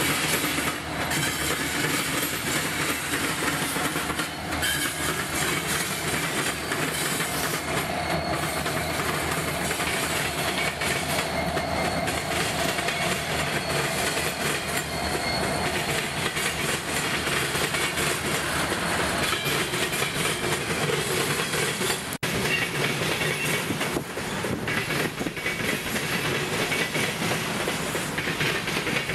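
Freight train rolling past close by: diesel locomotives and then a long string of boxcars, steel wheels clattering over the rail joints with a faint squeal of wheels at times. About three-quarters through, the sound breaks off for an instant and another freight train of boxcars goes on rolling by.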